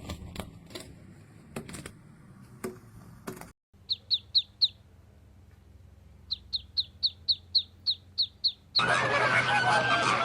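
A small bird giving short, sharp, high chirps at about five a second, in a brief run and then a longer one, after a few scattered clicks. Near the end a much louder chorus of many birds calling cuts in.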